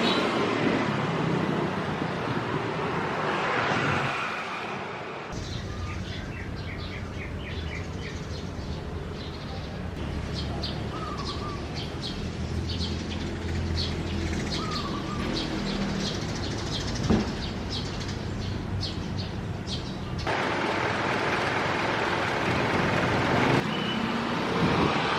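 Birds chirping in quick series of short, high calls, with a few lower warbled notes, over a steady low hum. A broad rushing noise fills the first few seconds and returns near the end.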